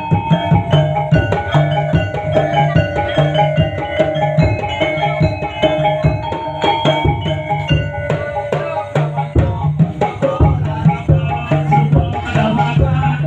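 Topeng Ireng dance accompaniment: a Javanese percussion ensemble playing fast, dense drumming over a low pulsing beat, with steady pitched ringing tones above.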